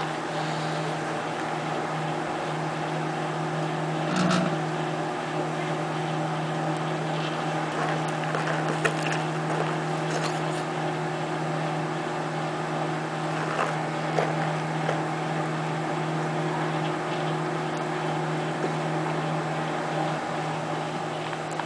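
Microwave oven running with a steady hum while a cell phone burns inside it, with scattered sharp crackles and pops from the burning phone.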